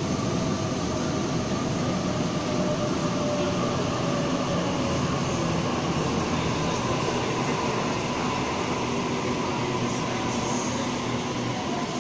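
Sydney Trains Waratah double-deck electric train pulling into an underground station platform and slowing: a steady rumble of wheels on rail, with faint motor whines falling gently in pitch as it brakes.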